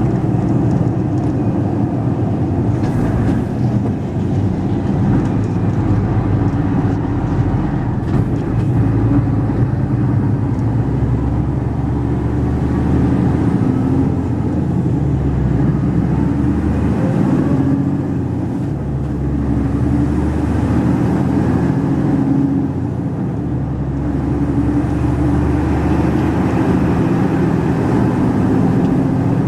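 Mercedes-Benz Actros 2546 truck's diesel engine running steadily as the unladen truck drives, a low drone whose lowest tones shift a little now and then.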